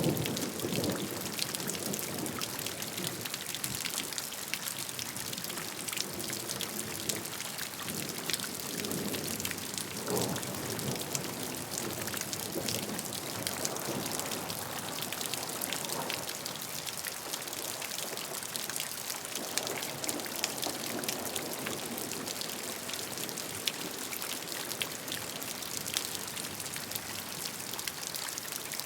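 Steady rain, with many separate drops heard striking a surface as fine ticks over an even hiss. Now and then there is a brief swell of lower sound.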